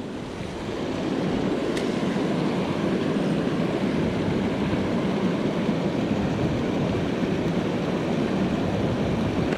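Creek water rushing steadily over a riffle, a constant even wash of noise.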